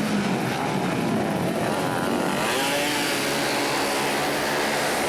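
Several flat-track racing motorcycles running and revving together, their engine notes overlapping.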